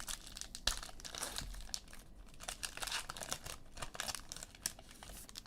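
Crinkling and rustling of trading-card pack wrappers and cards being handled, with many small clicks and brief rustles.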